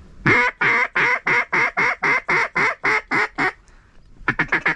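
A long, even run of about a dozen loud mallard-style quacks, about three a second. After a short gap near the end, a quicker burst of short quacks begins.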